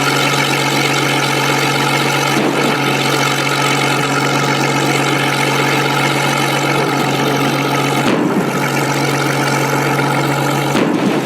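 An engine running steadily: a constant low hum with many overtones, briefly interrupted about two and a half seconds in, about eight seconds in, and near the end.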